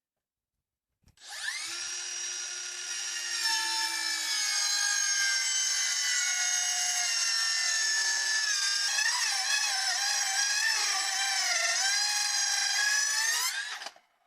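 A power tool's motor whining as it spins up and works on wood. Its pitch wavers under load in the second half, and it stops abruptly near the end.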